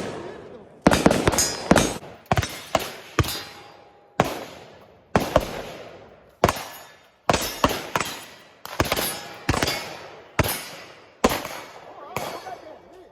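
Gunfire on a shooting range: around twenty sharp shots at uneven spacing, some in quick pairs and triplets, each followed by a short echoing tail.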